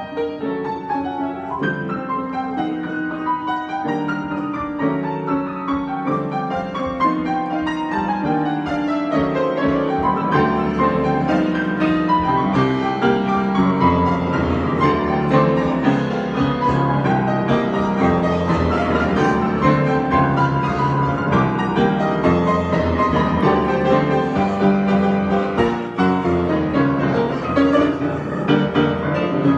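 Piano being improvised, dense chords and running notes without a break, growing a little louder over the first ten seconds.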